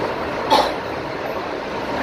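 Passenger train running at speed, heard from inside the coach as a steady rumble, with one brief sharp sound about half a second in.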